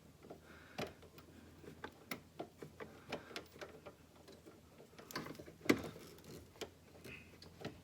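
Irregular small metallic clicks and taps of a fastener being worked onto its thread by hand during an engine damper install, with one sharper knock about two thirds of the way through.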